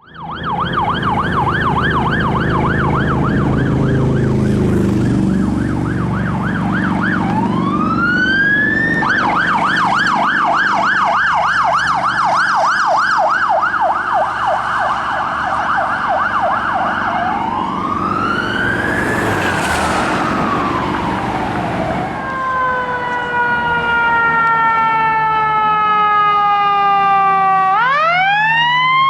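Emergency vehicle sirens going by, switching between a fast yelp and slow rising-and-falling wails. Near the end a long siren tone slowly falls, then rises again. A heavy engine rumble runs under the siren for the first several seconds.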